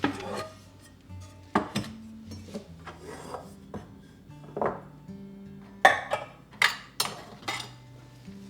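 Soft background music with a series of short household handling sounds: sharp clicks and knocks, several in quick succession in the second half, along with rubbing.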